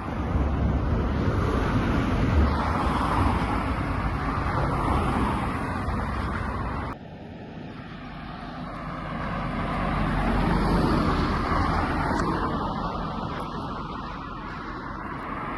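Road traffic passing, the noise of cars swelling and fading; it drops off sharply about seven seconds in, then swells again as another vehicle goes by.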